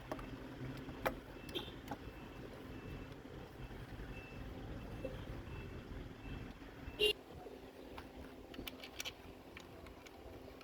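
Scattered light clicks and knocks of tools and engine parts being handled while fuel injectors are fitted, the loudest about seven seconds in and a quick cluster near nine seconds, over a low steady hum.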